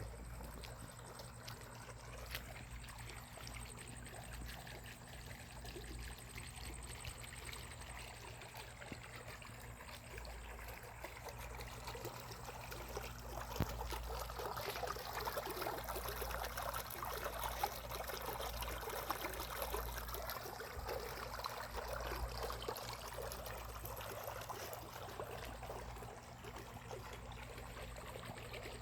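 Floodwater running and trickling, growing louder about halfway through and easing back near the end, over a steady low hum.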